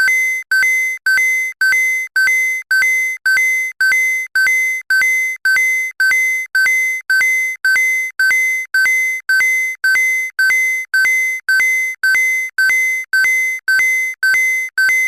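Weather radio receiver's alert alarm beeping evenly, about two loud beeps a second, set off by the National Weather Service's weekly test of the alarm tones.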